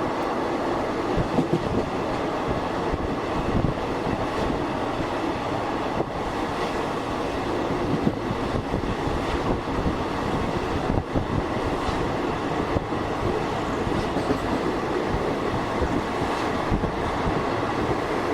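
Indian Railways passenger coach running along the track, heard from inside: a steady rumble and rattle with irregular knocks and clatter from the wheels on the rails.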